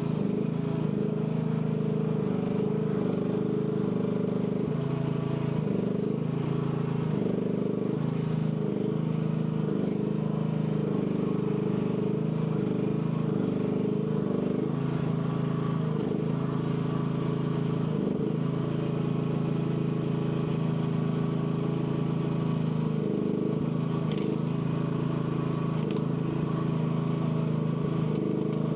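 AGT L12 mini excavator's engine running steadily, its pitch dipping briefly now and then as the hydraulics take load. A couple of sharp knocks near the end.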